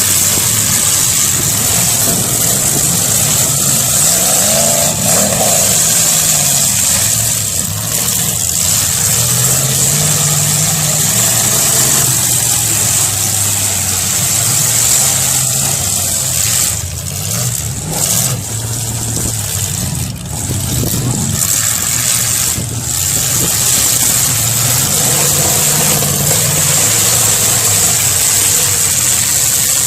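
Demolition derby car engines running and revving, their pitch rising and falling. A few short sharp bangs come in the middle stretch.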